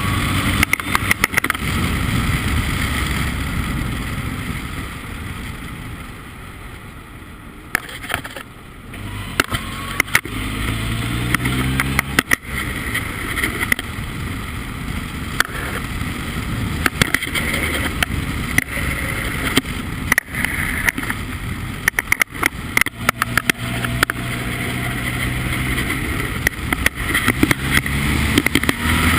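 Formula Ford race car engine running hard, with many sharp knocks and crackles throughout. It drops back for a few seconds about a quarter of the way in, then climbs in pitch as it accelerates again.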